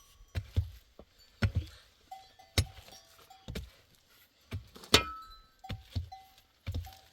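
A series of irregular knocks and thuds, roughly one or two a second, with short high chirping tones between them; about five seconds in comes the loudest strike, a sharp clank that rings on briefly like metal.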